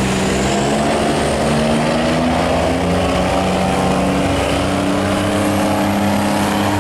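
Several boat and barge engines running together under heavy throttle: a steady, loud drone of overlapping engine notes whose pitches drift slowly up and down.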